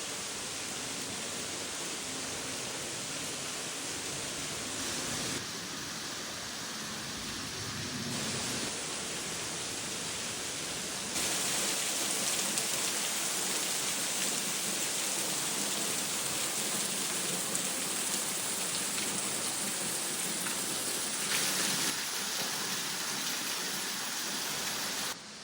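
Steady rushing noise of falling water, with no pitch to it. It steps abruptly louder or softer several times, about 5, 8, 11 and 22 seconds in.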